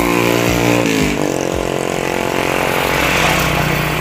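Motorcycle engine dropping in pitch about a second in as it slows, then idling steadily.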